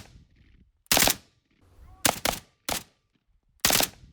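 Gunfire: a series of separate, loud single shots, irregularly spaced about half a second to a second apart, with two close together about two seconds in.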